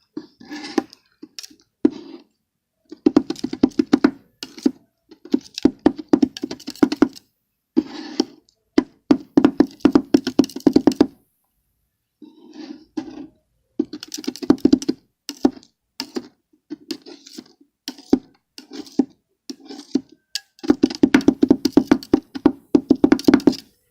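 Bursts of rapid clicking and crackling, each a second or a few seconds long with short pauses between, from crushed Oreo cookies being worked by hand on a board.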